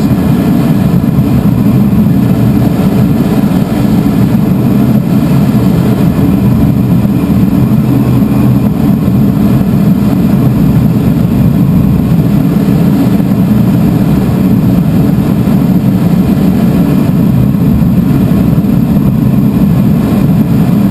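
Steady loud rush of air and a low engine drone heard inside a glider's cockpit while it climbs on tow behind the tow plane. It holds unchanged throughout.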